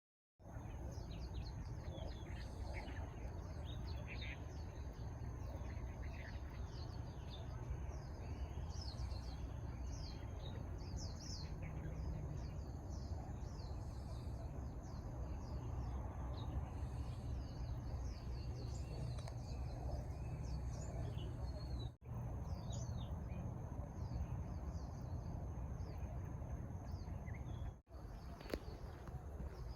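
Many small birds chirping in quick, short calls over a steady low outdoor rumble, with a thin steady high tone running beneath. The sound cuts out briefly twice, once about two-thirds of the way in and once near the end.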